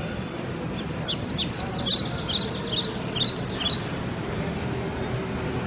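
Bird chirping: a quick run of short, high chirps, several a second, starting about a second in and stopping near the middle, over a steady low background noise.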